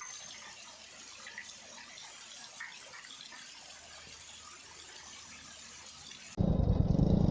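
Faint hiss with a few soft chirps, then, about six seconds in, a sudden cut to the Royal Enfield Hunter 350's single-cylinder engine running under way, much louder, with wind on the microphone.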